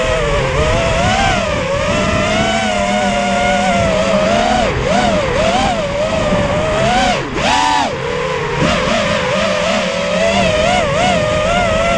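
FPV racing quadcopter's brushless motors whining, the pitch rising and falling quickly and constantly with throttle changes, with a short drop and sharp climb a little past halfway.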